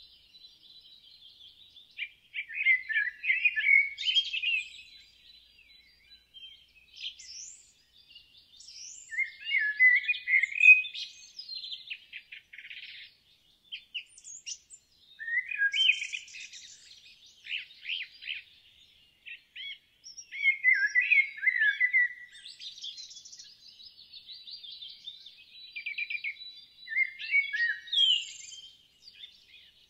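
Songbird singing, a few seconds of quick chirping, warbling phrases repeated about every five to six seconds, with quieter chirps in between.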